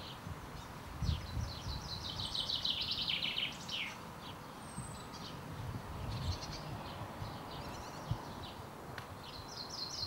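A songbird singing: a fast trilled phrase that drops in pitch, heard twice, with shorter chirps in between, over a low outdoor rumble.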